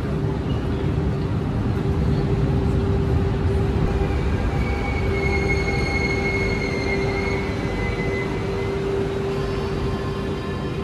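Double-deck RER A train standing at an underground platform, its equipment giving a steady low rumble and hum in a reverberant station hall. A high whine rises over it from about four to eight seconds in, and fainter tones follow near the end.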